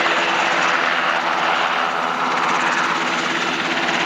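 Sikorsky UH-60 Black Hawk helicopter hovering low, its rotor and turbines making a loud, steady noise.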